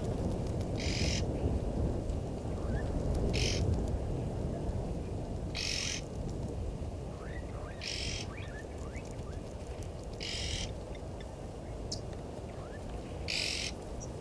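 Bush ambience at a waterhole: a short harsh, hissing call repeats six times, about every two and a half seconds, with faint brief bird chirps between, over a steady low rumble.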